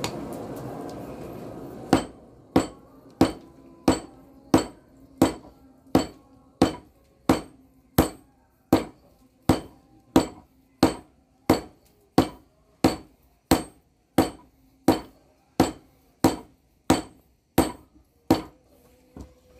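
Hand hammer beating hot bearing steel on an anvil while a blade is forged: a steady run of about two dozen even blows, roughly one and a half a second, starting about two seconds in. Each blow leaves a brief metallic ring.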